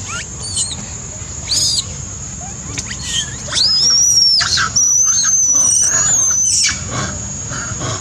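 Monkeys screaming: a few short high squeals, then two long, high-pitched shrieks starting about three and a half and five seconds in, the second lasting nearly two seconds.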